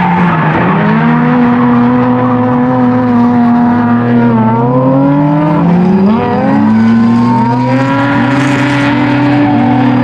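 Mazda FC RX-7's naturally aspirated 13B two-rotor rotary engine running hard, held high in the rev range while drifting. Its pitch dips and climbs back twice, about halfway through and again a couple of seconds later, as the throttle is lifted and reapplied.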